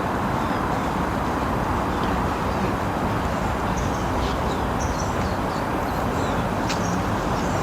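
Steady outdoor background rush with short, high bird chirps scattered through it, several in the middle and near the end.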